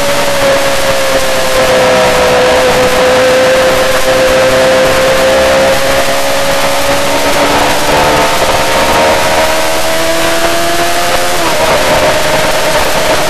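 Yamaha R6 inline-four engine running hard at high revs, its pitch sagging slightly and then climbing slowly for several seconds before dropping abruptly near the end, over a steady rush of wind noise.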